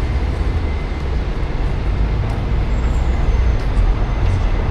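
Steady low rumble of road traffic in a city street, continuous, with no distinct events.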